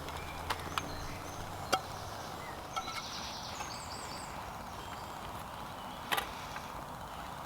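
Quiet woodland campsite ambience. A low hum fades out about two seconds in, a few sharp clicks and knocks are scattered through, and a short run of high chirps comes about three seconds in.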